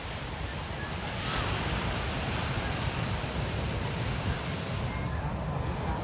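Sea waves washing onto a beach, with a wave breaking about a second in.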